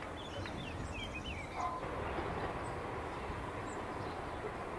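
Birds chirping in short high rising and falling notes for the first second or so, over a steady low outdoor rumble.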